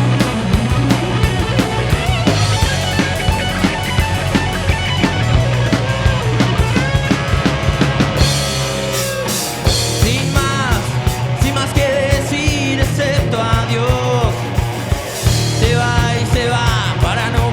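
Rock band playing live: drum kit and guitars in a steady full-band groove, with a bending, wavering melodic line rising above it from about halfway through.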